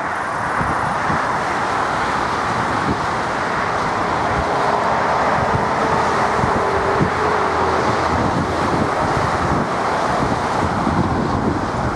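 Airbus A319's twin jet engines at takeoff thrust: a loud, steady roar that grows a little louder, with a faint whine in the middle. Wind buffets the microphone.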